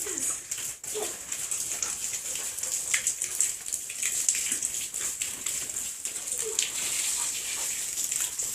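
A dog scuffling with many short clicks over a steady hiss, giving a couple of brief whines.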